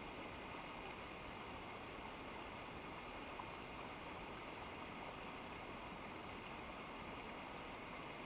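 Steady rush of flowing water from a mountain river, even and unbroken.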